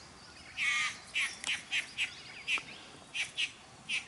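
Male satin bowerbird calling at his bower: one longer call about half a second in, then a run of short calls. This is courtship calling to let females know he is accepting visitors.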